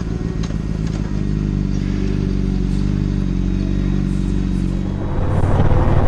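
Motorcycle engine running at a steady pitch. About five seconds in, a louder, rougher engine sound takes over.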